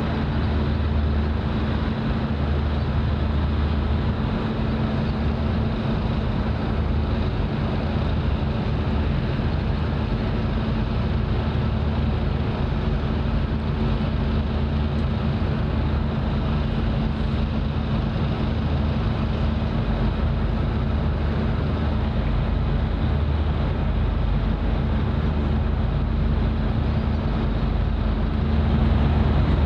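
Steady low engine drone: a constant hum under an even hiss, getting slightly louder near the end.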